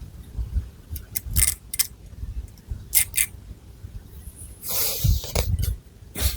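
Long fingernails scratching through hair on the scalp in short, quick strokes, with one longer, fuller scratch about five seconds in, over low bumps from handling.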